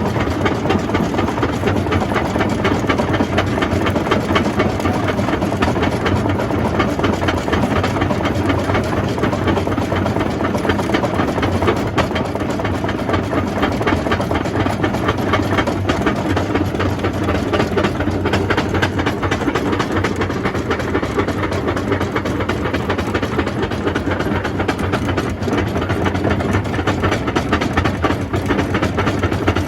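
Jaw crusher running steadily while crushing rock: a continuous machine rumble with a dense, unbroken clatter of stone.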